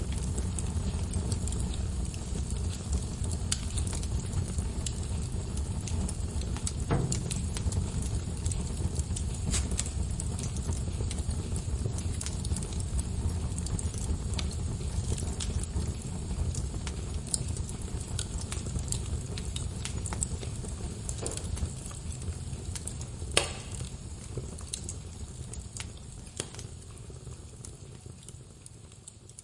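Wood fire crackling in a fireplace: a steady low rumble of flames with frequent small snaps and one sharper pop late on, fading down near the end.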